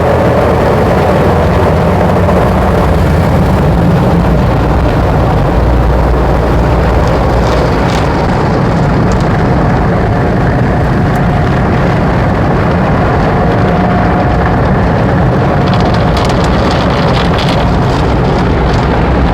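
Automatic tunnel car wash heard from inside the car cabin: a steady, loud rush of water sprays and wash machinery against the car's body, very noisy in here.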